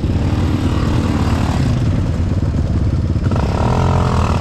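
Off-road motorcycle engine running steadily, with its pitch shifting near the end.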